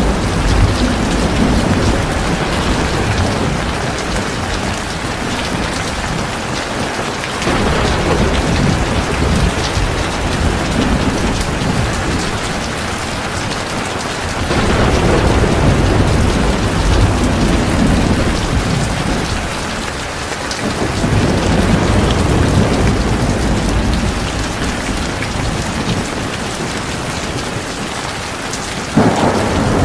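Heavy rain pouring steadily, with low rolling thunder swelling up about four times, roughly every seven seconds, the last one starting suddenly near the end.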